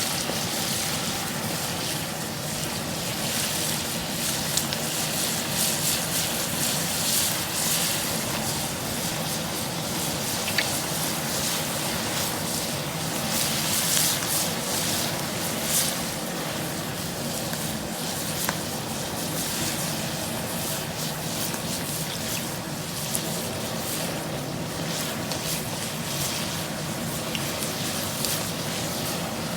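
Hot frying oil bubbling and crackling around a whole turkey as it is lowered slowly into a deep fryer: a dense, steady sizzle with many sharp pops.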